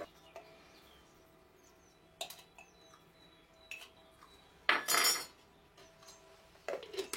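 Teaspoon clinking and scraping against a bowl while scooping salt into the dough mix: a few light knocks, a longer, louder scrape about five seconds in, and more knocks near the end.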